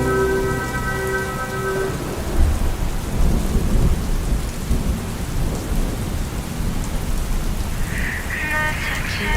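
Recorded rain falling steadily, with a low rolling rumble of thunder. The last notes of a song fade out about two seconds in, and a new song begins near the end.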